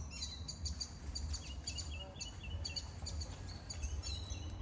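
Small birds chirping: quick, high chirps repeated in runs, over a steady low rumble.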